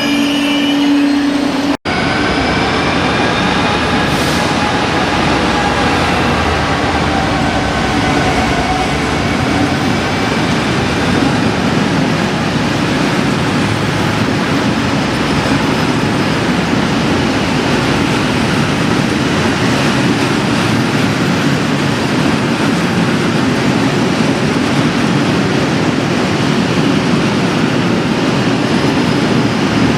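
A train running past on the rails, a steady rumble of wheels and wagons with no let-up, broken by an abrupt cut about two seconds in; faint pitched whines fade out over the first ten seconds.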